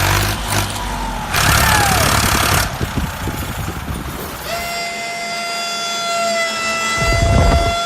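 A motor running, with two loud bursts of hiss early on. About halfway in, a long steady horn-like tone begins and holds.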